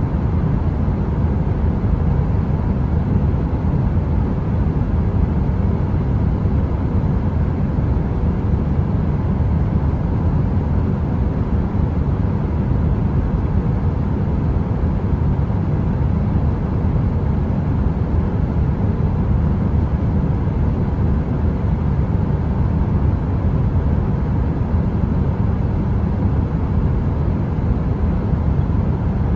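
Steady, deep brown noise like the drone of a space heater: heavy in the bass with little hiss, even throughout, and without any fire crackles.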